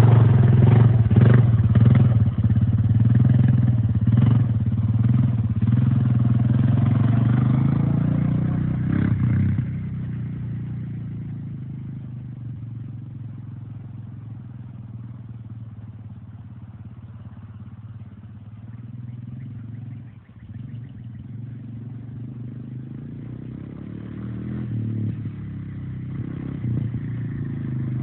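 Four-wheeler (ATV) engine running, loud at first, then fading from about ten seconds in as it moves away, and getting louder again near the end as it comes back.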